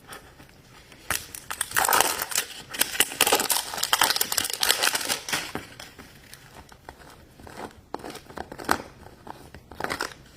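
Toy packaging being torn open and crinkled by hand, a dense crackling rustle for several seconds that thins into scattered crinkles and clicks in the second half.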